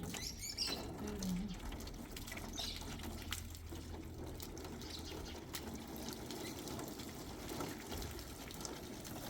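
Steady running water, like a tap or a small stream, with a few faint voices briefly in the first seconds.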